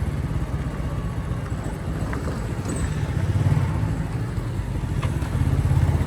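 Motorcycle running at a steady pace while being ridden, heard as a low, steady rumble.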